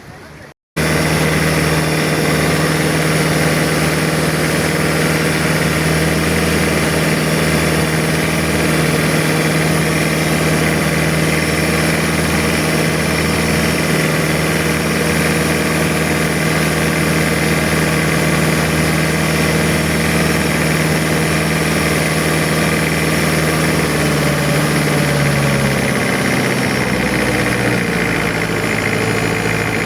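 Boat engine running loud and steady close by. It cuts in abruptly about a second in, and its pitch drops slightly near the end as the engine slows a little.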